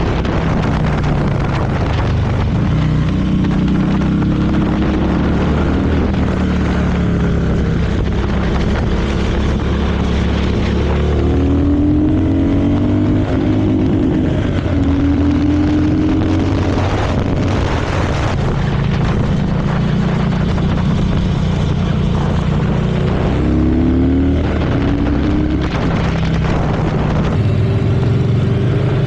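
A vehicle's engine running steadily under road noise while driving, its pitch rising in a few accelerations, around the middle and again near the end.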